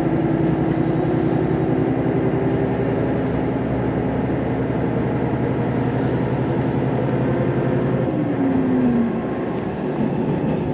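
Diesel railcar running under power, heard from inside the cabin: a steady engine drone with an even low throb. About eight seconds in, the engine note drops and the sound eases off, as the engine throttles back.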